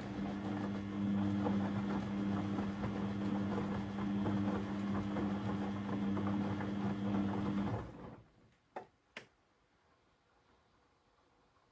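Beko WMB 71643 PTE washing machine running with a steady hum and a busy rushing noise that stops about eight seconds in, followed by two short clicks.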